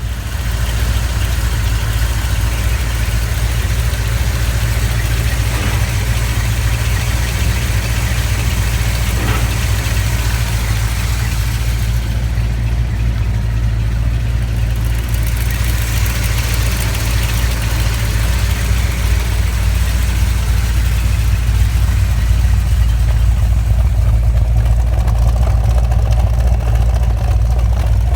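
1972 Corvette's 454 cubic-inch LS5 big-block V8 running steadily with a deep, even note, a little louder near the end.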